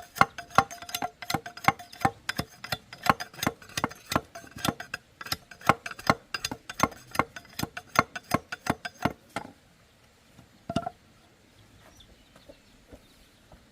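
Repeated sharp chopping strikes, about three a second and evenly paced, stopping about nine seconds in, with one more strike a little later.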